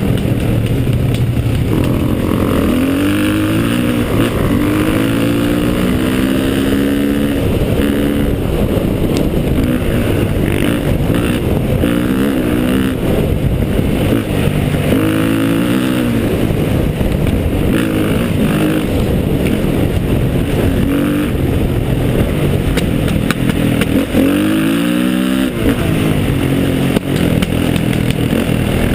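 Motorcycle engine pulling hard up a steep trail climb, its revs rising and dropping back again and again as the rider works the throttle and gears.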